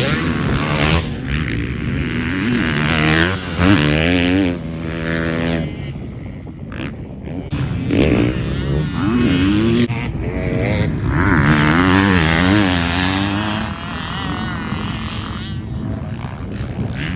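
Dirt bike engines revving, the pitch rising and falling over and over as the throttle is worked.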